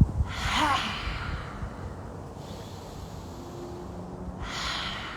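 Two forceful open-mouthed exhalations of yogic lion's breath. The first lasts about a second with a falling pitch; a shorter, softer one comes near the end.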